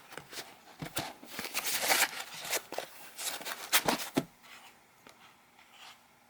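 Dashcam packaging being handled and unpacked: a busy run of rustles, scrapes and small clicks for about four seconds, then faint handling.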